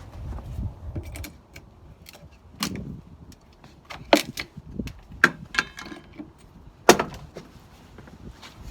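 Scattered clicks and knocks of hand work on an old wooden window frame and its trim nails, with four sharp knocks standing out.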